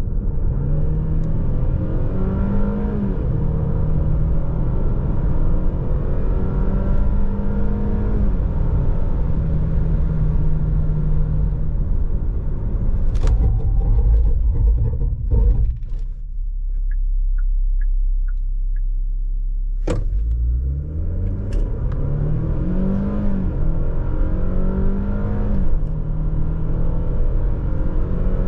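Genesis GV70's 2.5-litre turbo-petrol four-cylinder accelerating through the gears of its 8-speed automatic, the engine note rising and dropping back at each upshift. About halfway it settles to a low steady drone with a few faint ticks, then, after a sharp click, pulls up through the gears again.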